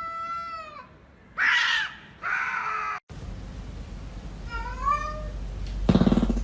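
Cats meowing: three meows in quick succession, then after a cut a rising meow and a short, loud, rough call near the end.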